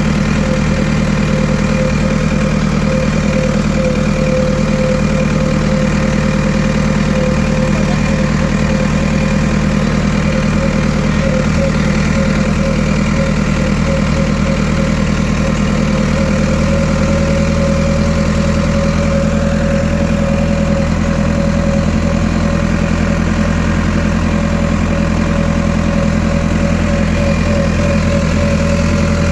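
Tractor engine running steadily at a constant low speed, with an even drone that does not change.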